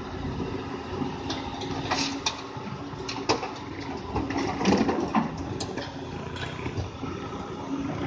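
Doosan DX 200 A excavator's diesel engine running steadily under load, with irregular knocks and clatter from rock material being dug and dumped.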